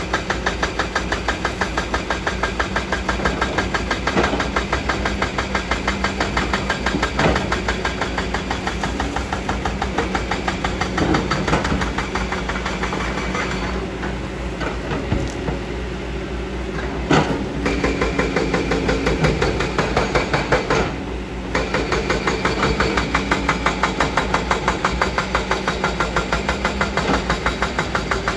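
Kobelco hydraulic excavator's diesel engine running under load as it digs a hillside, with a steady pulsing beat and a few sharp knocks.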